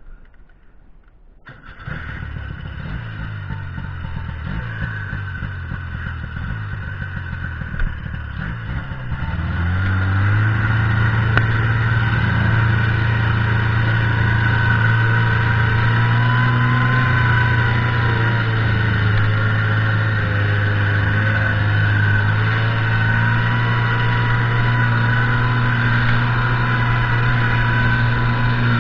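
Buran snowmobile's two-stroke engine starts up about two seconds in and runs unevenly at low speed, then about nine seconds in rises to a steady, louder, higher engine speed that it holds.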